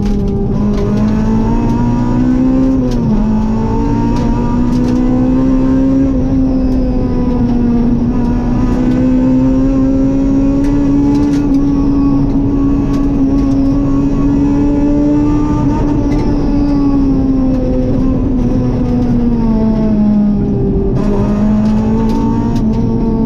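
Rally car engine heard from inside the cockpit, held at high revs at a steady pitch that falls briefly about three seconds in and again near the end, over road and tyre noise.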